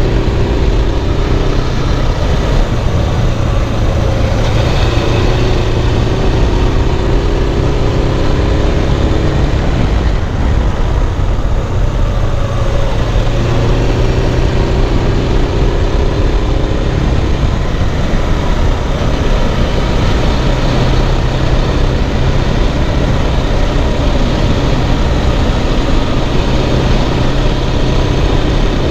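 Suzuki GS500F's parallel-twin engine running under way, its pitch climbing and dropping several times as the bike speeds up and slows, over a steady rush of wind and road noise.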